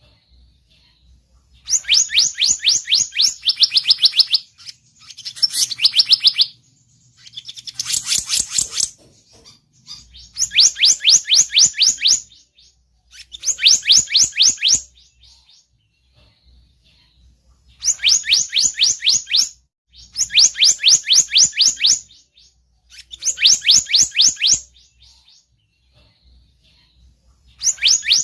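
Lure-call recording of the selendang biru bird, a bird call used to attract the birds. It plays as repeated bursts of rapid, high, evenly spaced chirping notes, each burst lasting about one and a half to two seconds, with short pauses between them.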